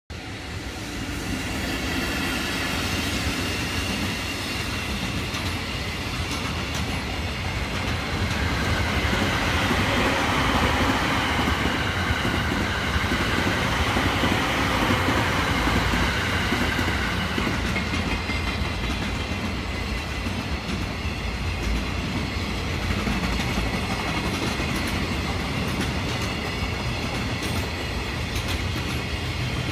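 An E231 series electric commuter train and a long container freight train passing on the tracks: a continuous rolling rumble with wheels clattering over the rail joints, loudest around the middle as the passenger train goes by.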